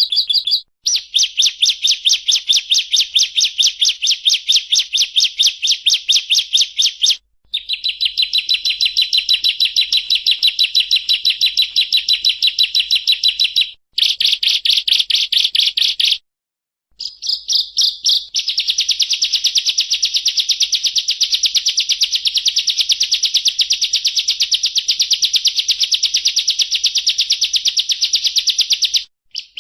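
Bar-winged prinia (ciblek) singing a long, rapid trill of sharp, evenly repeated high notes: the continuous 'ngebren' song. The trill is broken into several long phrases by brief pauses.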